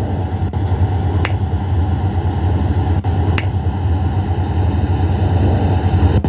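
Playback of a sleep-recorder recording: a steady hiss with a strong low hum, and a few sharp clicks over it, about half a second in, at about a second and a quarter, and two close together around three seconds.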